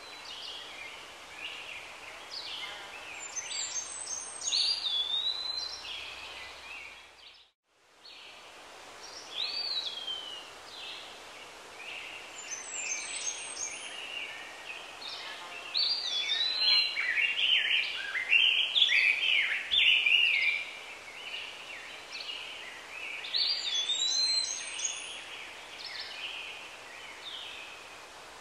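Birds singing: repeated whistled, gliding phrases and chirps over a steady background hiss, with a brief drop to silence about seven seconds in.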